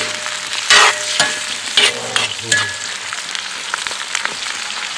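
Chicken thigh pieces with onion and carrot sizzling in hot oil in a Weber wok over a wood fire, stirred with a ladle. The ladle scrapes against the wok three times in the first half, over a steady frying hiss; the onion and carrot are starting to brown.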